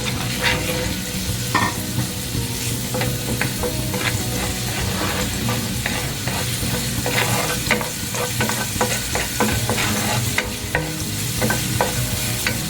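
Finely chopped garlic sizzling in melted margarine in a hot pan, sautéing until golden brown. A utensil stirring it scrapes and taps against the pan many times.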